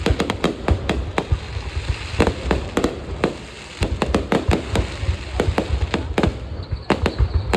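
Fireworks going off: a dense, irregular series of sharp bangs and crackling pops over a low rumble, with a short lull about half way.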